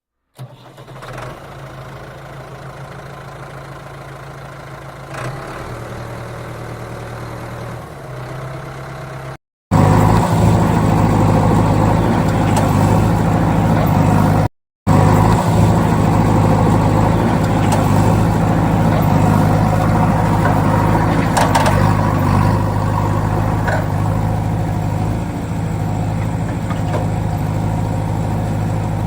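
Heavy vehicle engine running steadily at idle, quieter at first and louder after a short silent break about ten seconds in, with a second break a few seconds later.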